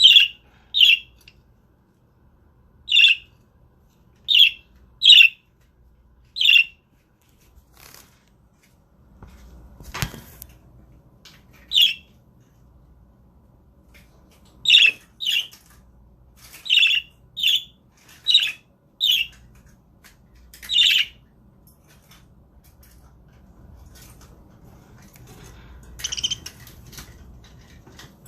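Pet budgerigars chirping: short, sharp calls repeated at irregular intervals, with a single soft thud about ten seconds in.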